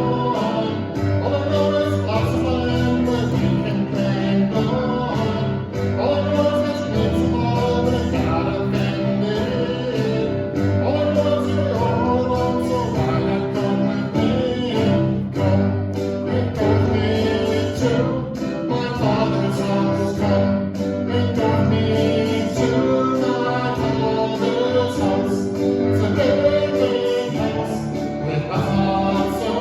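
A sung song with instrumental backing, guitar among the instruments, in a gospel or Christian style.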